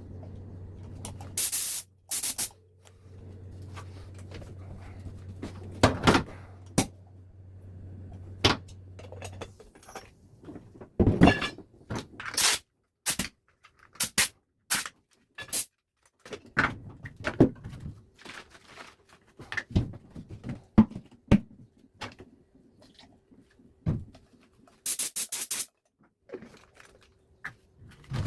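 Scattered clicks, knocks and clatter of metal parts and tools being handled, over a low steady hum that stops about nine seconds in. A short burst of hiss comes near the end.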